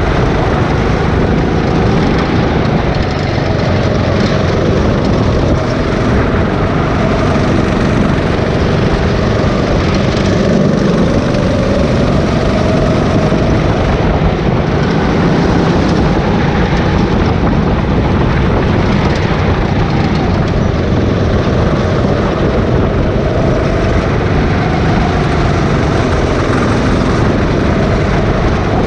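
Rental go-kart engine running hard and continuously, its pitch slowly rising and falling as the kart speeds up and slows down through the corners.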